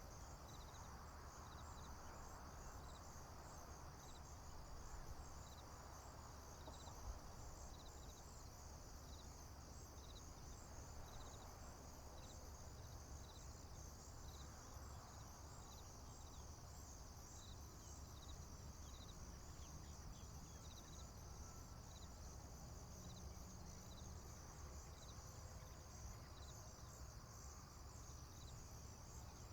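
Faint chorus of crickets and other insects: a steady high trill with a slow, regular chirp repeating about once a second, over a low steady rumble.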